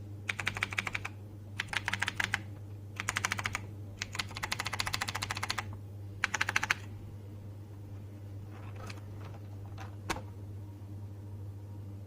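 TVS Gold mechanical keyboard with clicky Cherry MX Blue switches being typed on in five quick bursts of rapid key clicks, then a few single keystrokes near the end.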